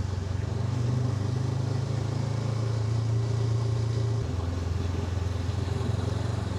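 Honda NX500's parallel-twin engine running steadily under way, its pitch dropping slightly about four seconds in.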